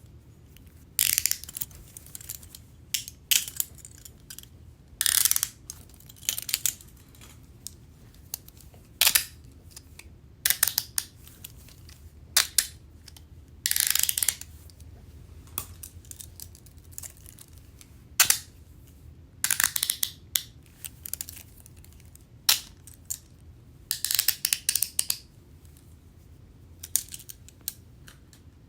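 Metal handcuffs being worked: short bursts of rapid ratchet clicking as the cuff's toothed arm swings through the lock, with brief pauses of a second or two between bursts, over a faint steady low hum.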